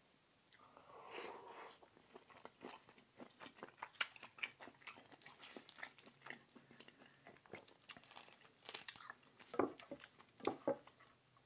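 A person eating close to the microphone: chewing with many small crunches and wet mouth clicks, and a couple of louder bites near the end.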